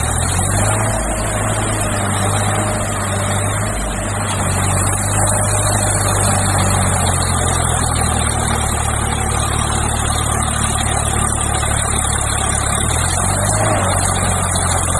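Heavy diesel engine running steadily at a low, even speed, its deep hum shifting slightly a few times.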